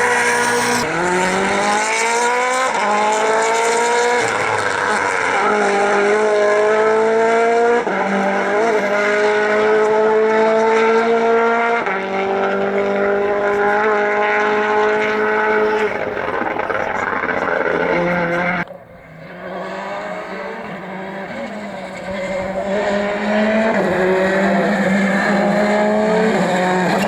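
Rally car engine at full throttle, its pitch climbing through each gear and dropping at every upshift. The sound dips sharply about 19 seconds in, then an engine builds again.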